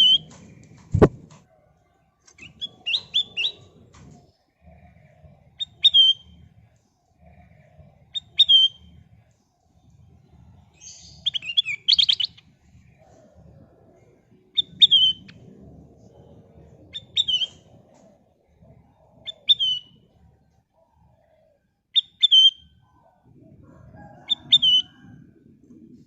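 A kutilang emas bulbul calling: short, sharp chirped notes repeated every two to three seconds, with a louder, buzzier burst of notes about halfway through. A single sharp knock sounds about a second in.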